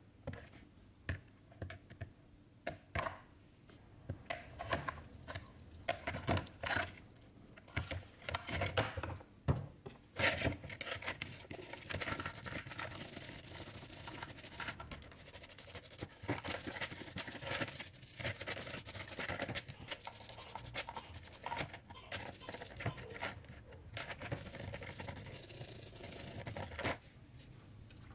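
Hand work on small metal engine parts: scattered clicks and taps for about the first ten seconds, then a steady rubbing and scrubbing that runs on until shortly before the end.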